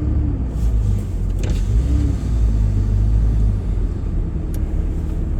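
Steady low rumble of a vehicle driving, heard from inside the cab.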